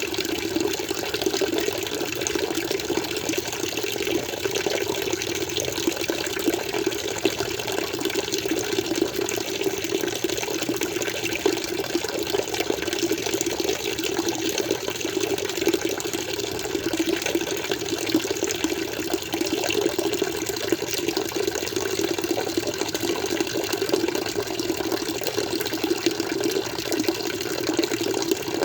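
Water flowing steadily without a break, an even splashing noise.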